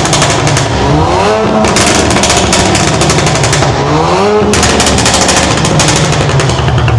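Modified car engine revved hard twice, the pitch rising each time, with rapid crackling exhaust pops and bangs through the revs.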